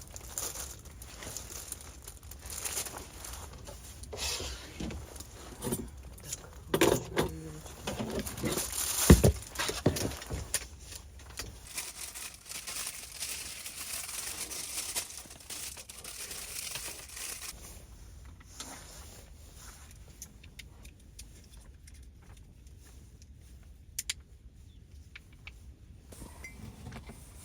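Irregular clicks, knocks and rustling of food and packaging being handled while pâté snacks are made. The loudest knocks come about seven and nine seconds in, and the handling grows quieter after about eighteen seconds.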